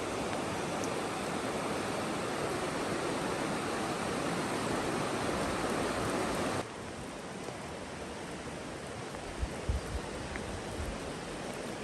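Steady rushing of water, heavy rain or running water, which drops sharply in level about two-thirds of the way through. A few soft low thumps come near the end.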